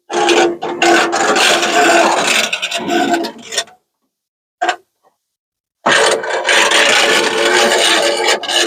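Door window glass of a 1950 Ford F1 being wound along its run channel, scraping and rubbing with a steady squeak. It goes in two runs of about three and a half seconds each, with a pause and a short knock between them.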